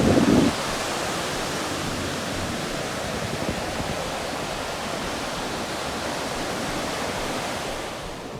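Steady wash of ocean surf breaking on a sandy beach, with a louder rush right at the start.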